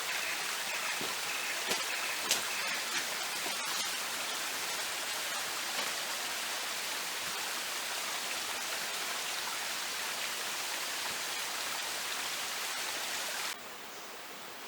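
Steady rushing noise with a few light clicks in the first few seconds; it drops away abruptly about 13.5 seconds in.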